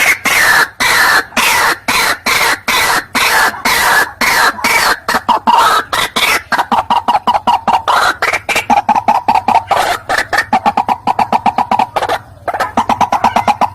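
White-breasted waterhen (ruak-ruak) calling: a long, rapid run of harsh, clucking notes, about four a second at first and quickening to about six a second, with a brief break near the end.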